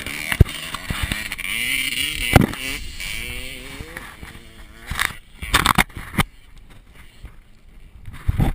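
Dirt bike engine revving up and down, broken by sharp knocks. The engine sound fades after about four seconds, leaving a few more sharp knocks and scrapes.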